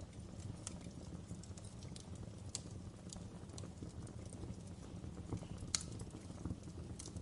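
Wood fire in a fireplace burning with a steady low rumble and irregular sharp crackles and pops, one pop louder than the rest about three-quarters of the way in.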